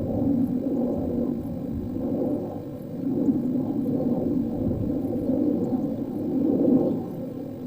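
Train running on the heritage line, a low rumbling drone that swells and eases, loudest near the end.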